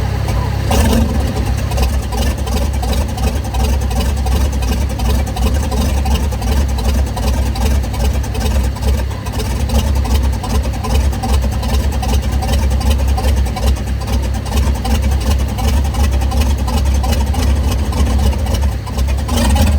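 Mercruiser 5.7-litre V8 boat engine turning over with a steady low rhythmic chugging, being started on a shot of starting fluid because it sits on old, bad gas.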